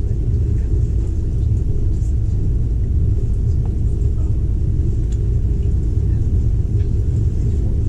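Passenger train running, a steady low rumble with a few faint ticks.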